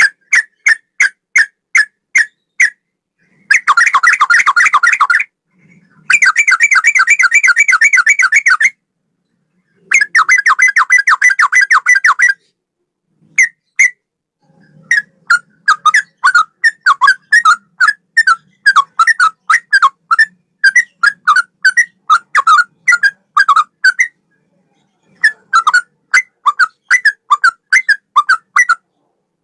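Sooty-headed bulbul song with straw-headed-bulbul-like phrases: a run of short repeated whistled notes, then three long, fast chattering trills, then a stream of quick whistled phrases.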